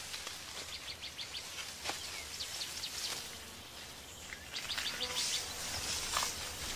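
Forest birds chirping in quick series of short, high notes, repeated several times over a faint steady forest hiss.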